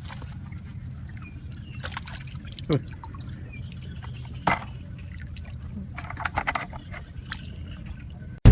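Water splashing and trickling, with a louder plop that drops in pitch a little under three seconds in, another about halfway through, and a run of small splashes later, over a steady low rumble.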